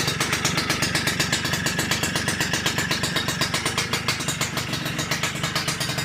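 Yamaha RS100's two-stroke single-cylinder engine idling through its exhaust pipe with a rapid, even putter.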